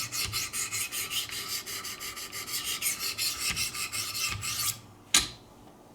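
Sharpening stones of a Wicked Edge guided knife sharpener rasping quickly back and forth along a steel knife edge at 400 grit, about five strokes a second. The strokes stop near the end, followed by a single sharp knock.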